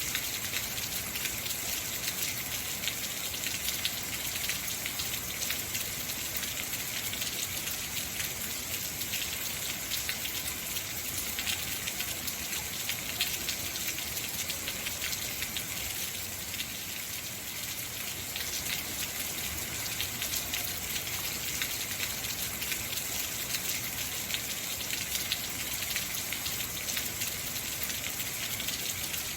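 Heavy rain falling steadily, a dense even hiss with many fine drop ticks on hard surfaces.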